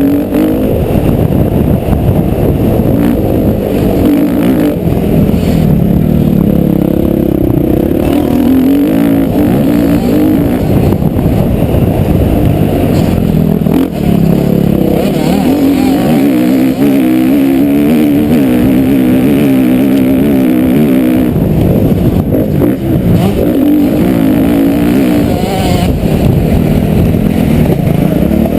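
Motocross bike engine being ridden hard, its pitch rising and falling again and again with the throttle.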